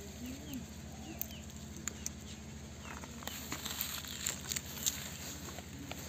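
Faint, scattered bird chirps and a few small clicks over a low steady hum.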